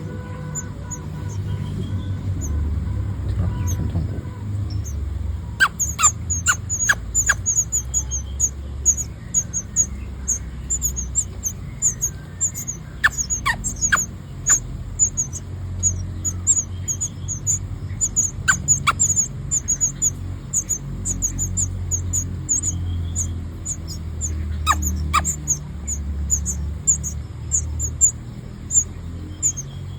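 Nestling birds begging for food: rapid, very high-pitched cheeping, a stream of short calls that starts about five seconds in and keeps going, over a low rumble.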